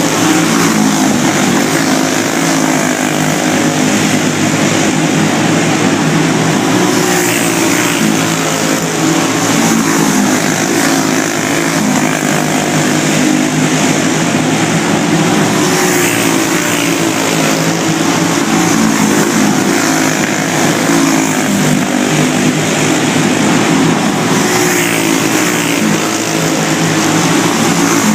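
Go-kart engines racing, several at once, their pitch rising and falling as they accelerate and back off.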